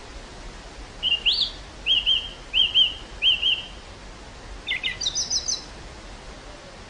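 Steady wind hiss across an open wildflower field, with a songbird singing: four quick repeated note groups, then a higher, faster trill about five seconds in.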